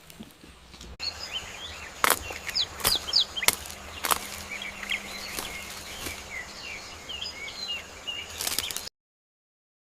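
Outdoor nature ambience with many short bird chirps and a few sharp snaps or clicks scattered through it; the sound cuts off abruptly to silence near the end.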